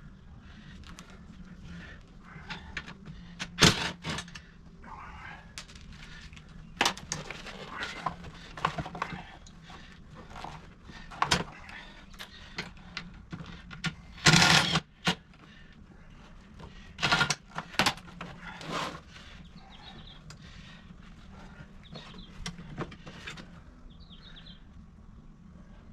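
Scattered clicks, knocks and clanks of hand tools and metal seat hardware as a car seat is unbolted and worked loose. A louder clatter lasting about half a second comes about halfway through, over a steady low hum.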